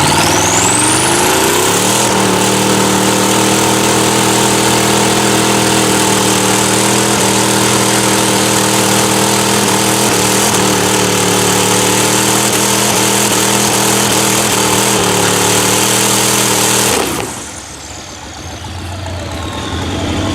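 A mud truck's engine revs up over about two seconds, then is held at high, steady revs for about fifteen seconds under a loud, steady hiss. Near the end the throttle is lifted and the engine sound drops away sharply.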